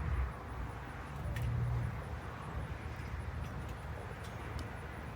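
Steady low engine rumble of a large vehicle, swelling slightly about a second and a half in.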